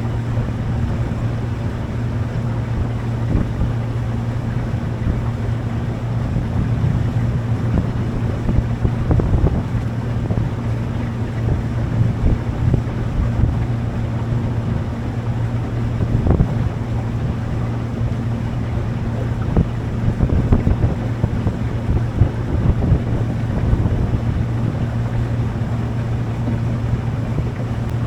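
Motorboat engine running at a steady cruising speed, a constant low hum, with wind buffeting the microphone.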